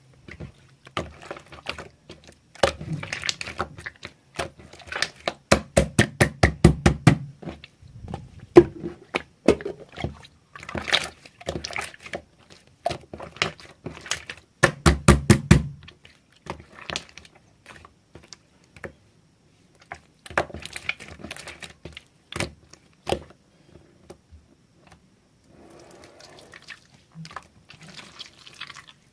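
Slime being squeezed, stretched and poked by hand, with runs of quick wet clicks and pops as trapped air bubbles break.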